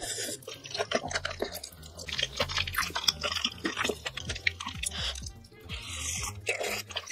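Close-miked chewing of spicy hot pot, soft gopchang and seafood, with many quick wet clicks and smacks and a slurp of broth from a spoon near the end, over background music.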